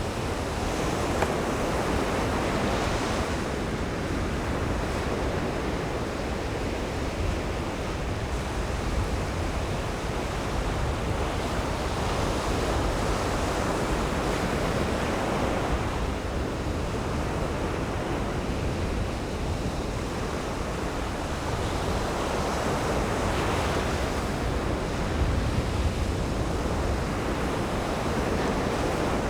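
Ocean surf breaking on a beach: a steady wash of waves, swelling and easing now and then.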